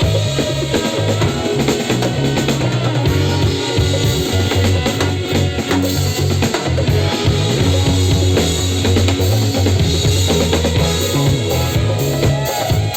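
A live band playing organic trance music: a drum kit with bass drum, snare and percussion drives the beat over a sustained bass line.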